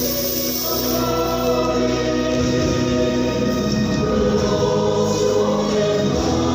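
Choir singing held, sustained chords that move from one note to the next.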